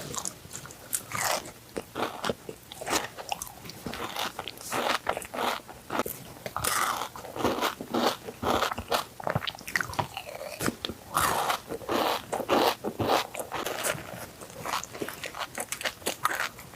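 Close-miked biting and chewing of Dubai chocolate, a chocolate bar filled with crisp kataifi pastry and pistachio cream, giving quick, irregular crunches.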